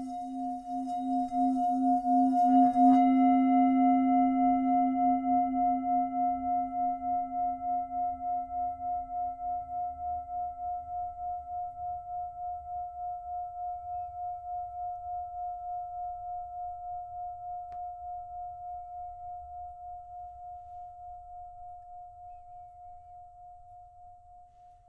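A singing bowl ringing with a pulsing wobble, swelling over the first few seconds and then slowly dying away. Its deeper tone fades within about ten seconds while the higher tone rings on faintly to the end.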